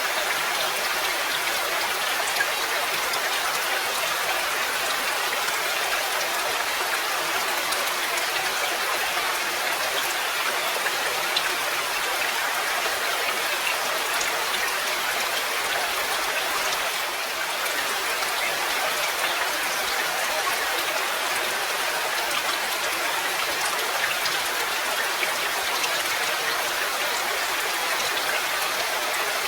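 Steady rain falling, a dense even hiss with fine pattering drops.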